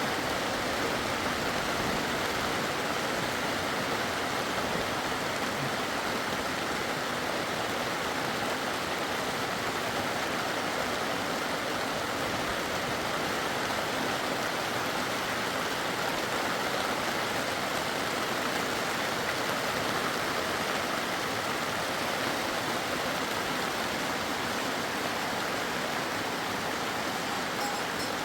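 Steady rush of flowing water, an even noise that holds at one level.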